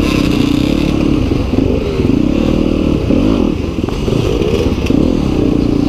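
Yamaha WR250F's single-cylinder four-stroke engine running under load off-road, held steady at first, then revved up and down several times in quick succession before settling near the end.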